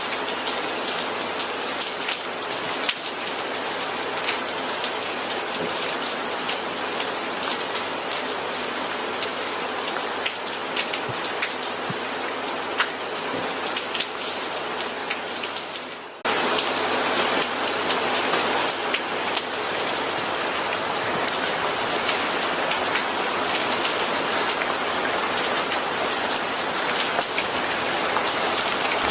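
Steady rainfall on a surface, a dense hiss with many single drops ticking through it. About 16 seconds in it cuts abruptly to heavier, louder rain.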